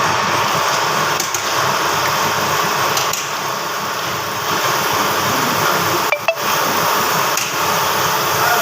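Grinding machine running with a steady whirring hiss, briefly dipping about six seconds in.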